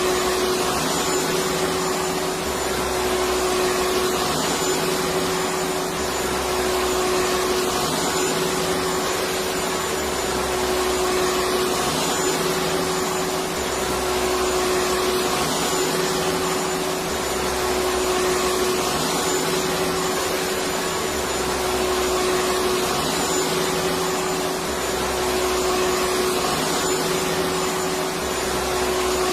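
Electric vacuum cleaner running steadily: a continuous whooshing whir with a steady hum and a faint high whine. A low throb swells and fades about every three and a half seconds.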